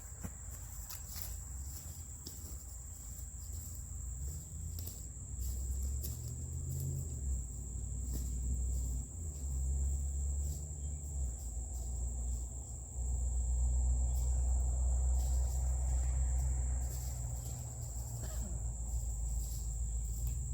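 Crickets chirping in a steady high-pitched chorus. Under it a low rumble swells from about four seconds in and is loudest a little past the middle.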